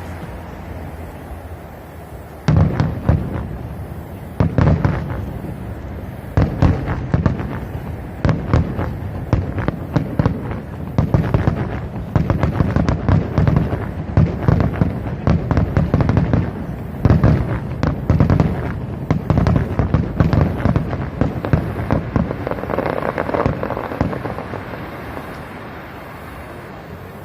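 Fireworks going off in quick succession, a long string of sharp bangs and crackles. It starts suddenly about two and a half seconds in and thins out near the end.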